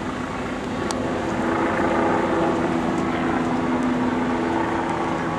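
An engine running steadily, droning at a constant pitch over a broad background of noise.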